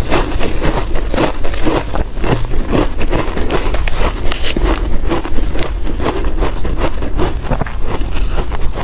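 Ice being bitten and chewed close to the microphone: a rapid, uneven string of crisp crunches.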